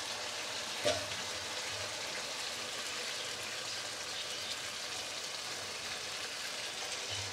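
Curry masala sizzling steadily in mustard oil in a wok as yogurt is added, with one brief knock about a second in.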